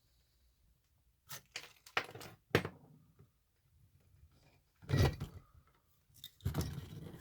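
Irregular knocks and clattering of rock slabs being split open and handled by hand; the longest and loudest clatters come near the end.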